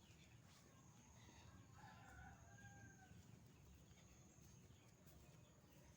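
A rooster crowing once, faint, about two seconds in, its call holding a slightly falling tone for a little over a second.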